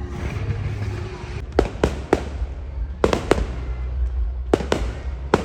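Fireworks display going off: a string of about eight sharp bangs, several coming in quick pairs, over a steady low rumble.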